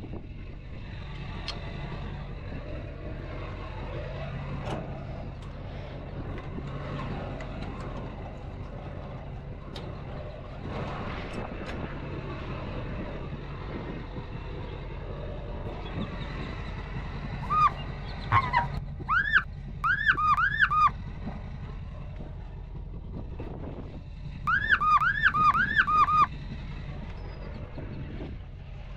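A vehicle engine running steadily with a low hum. Twice it is broken by a run of loud squeaky tones, each rising and falling, about three a second, the first lasting about three seconds and the second about two.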